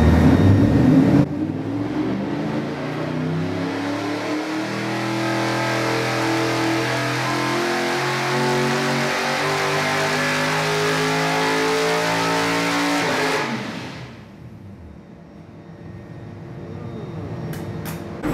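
Ford 5.0 L Coyote DOHC V8 with Borla individual-throttle stack injection making a wide-open-throttle pull on an engine dyno. The pitch climbs steadily for about twelve seconds, then cuts off abruptly as the engine reaches an ECU rev limiter that was set too low, and it drops back to idle.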